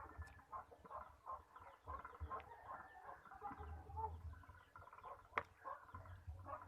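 Chickens clucking softly in a loose run of short calls, with a sharp click about five seconds in.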